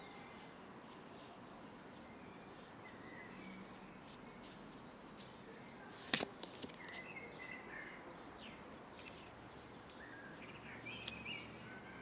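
Faint steady outdoor background hiss with a few short bird chirps scattered through it, and one sharp click about six seconds in.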